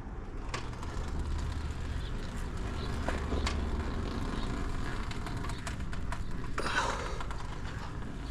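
Car being pushed by hand, its tyres rolling slowly over pavement with scuffs and small ticks; the front tyre is flat and the brakes drag, so it rolls hard.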